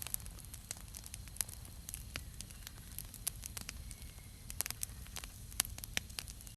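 Wood campfire crackling, with irregular sharp pops over a steady low background.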